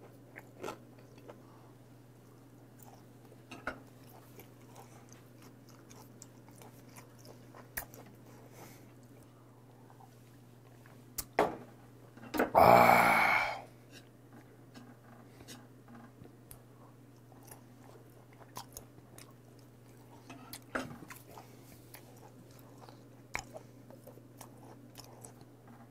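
Close-miked chewing of raw beef, with small wet mouth clicks now and then. About halfway through, a loud breathy burst lasting about a second stands out, over a steady low hum.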